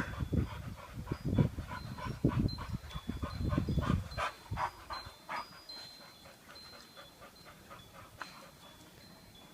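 Two dogs playing, with short irregular sounds of breathing and scuffling that die down after about five seconds.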